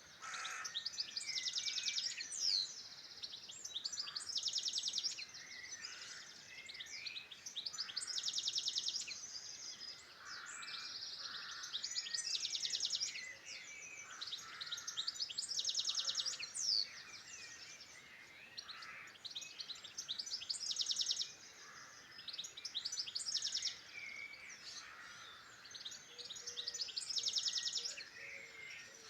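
Songbirds singing over one another. Rapid, high trilled phrases repeat every two to three seconds, with other chirps woven between them, and faint low calls come in near the end.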